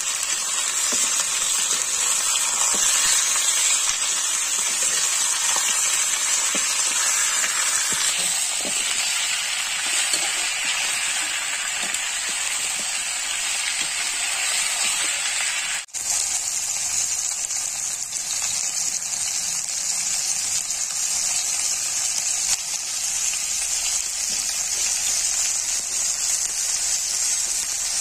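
Chicken pieces sizzling steadily in hot oil in an iron kadai, with a hiss that stays constant, and now and then the scrape of a metal slotted spoon stirring them. The sizzle breaks off for an instant about halfway through.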